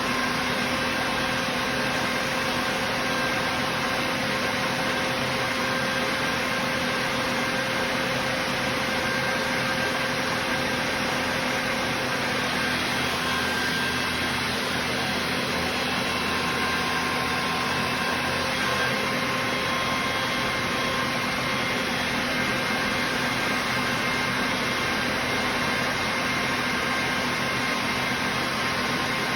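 ZIF-55 air compressor driven by an electric motor, running steadily: an even mechanical hum and hiss with several constant whining tones and no change in speed.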